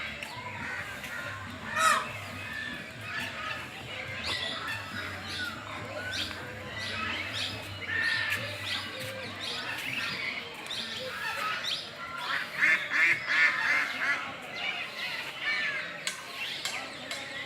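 Many birds in a bird park calling at once: short, overlapping calls and chirps throughout, with a fast run of rapidly repeated calls shortly before the end.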